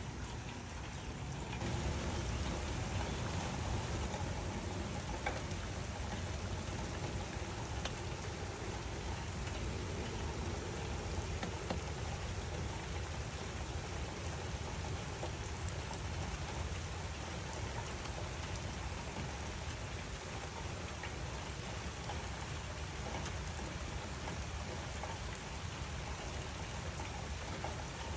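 Steady rainfall, a dense, even patter of drops on surfaces, that grows slightly fuller about a second and a half in and then holds steady.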